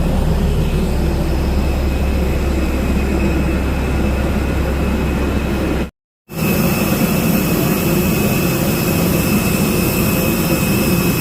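Airliner engine noise heard from inside the passenger cabin, a loud steady drone. It comes in two clips with a brief cut about six seconds in; the second clip carries a steady high whine over the drone.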